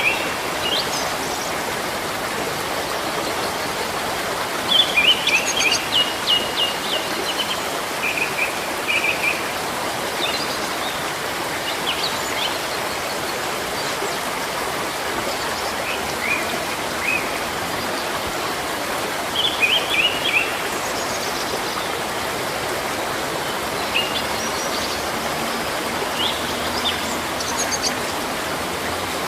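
Steady rush of running water, a stream, with small birds singing over it: a phrase of quick high chirps comes back several times, with scattered single calls in between.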